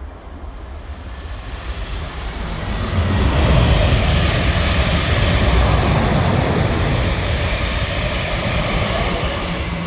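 A train running through at speed: a deep rumble and rushing noise that builds over about three seconds, then holds loud and eases slightly near the end.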